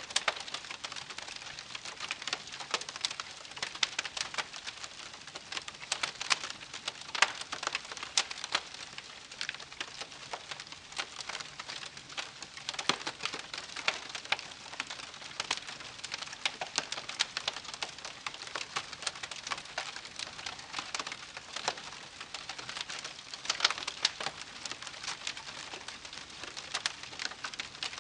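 Wood campfire crackling: dense, irregular pops and snaps over a soft steady hiss of burning.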